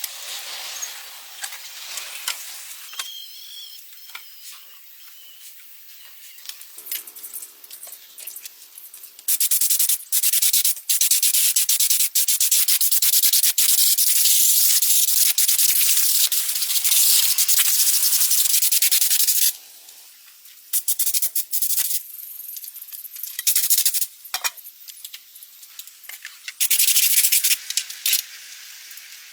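Harsh, scratchy sanding or scrubbing noise in long stretches, the longest lasting about ten seconds in the middle, with shorter bursts and quieter scraping between.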